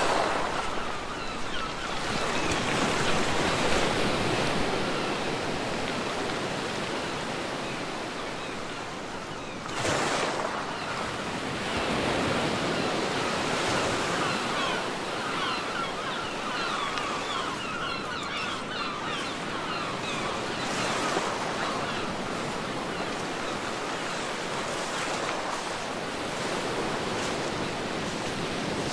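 Ocean waves breaking and washing up a beach, with a continuous rush of surf rising and falling. One wave crashes more sharply about ten seconds in.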